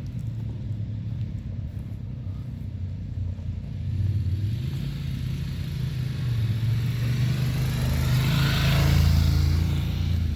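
Motorcycle engine running at low speed, a steady low rumble; a hiss joins it after about four seconds and both grow louder, loudest near the end.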